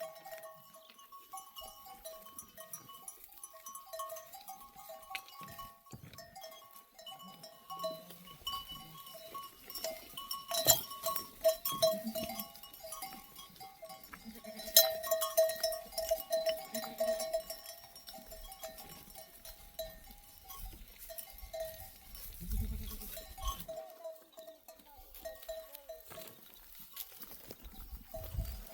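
A flock of sheep and goats bleating on and off, with a few sharp knocks.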